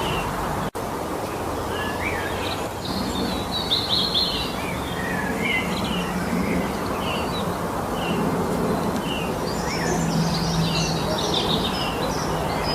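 Several songbirds singing in a spring forest: short chirps and trills from a number of birds, busiest around four seconds in and again near ten seconds, over a steady background hiss.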